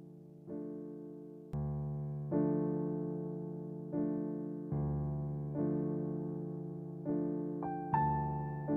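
Slow, gentle piano music: soft chords struck roughly every second, each left to fade, with a few higher notes near the end.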